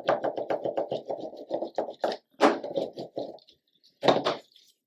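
Paper being handled at a craft table: a fast run of dry crackles and scratches for about three seconds, then a couple of separate knocks near the end.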